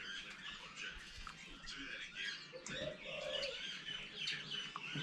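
Several birds chirping, their short calls overlapping.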